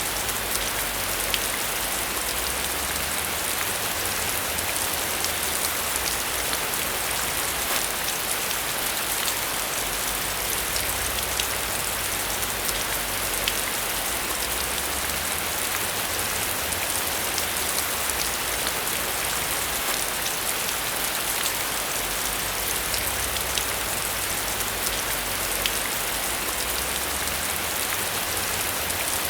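Steady rain falling, an even hiss dotted with many small drop ticks, over a low rumble that swells and fades.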